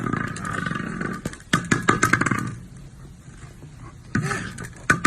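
An animal growling in three rough, pulsing bouts with short pauses between them.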